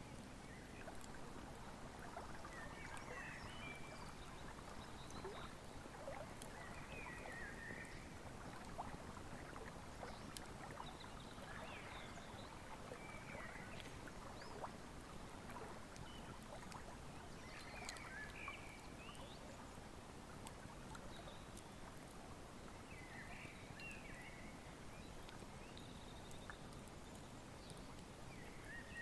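Faint wood fire crackling with scattered small pops over the steady rush of a flowing river. Short bird chirps come in every few seconds.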